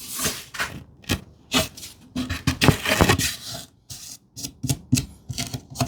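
Hand-sharpened rip saw cutting across plywood in short, uneven strokes, quicker and shorter near the end as the cut finishes.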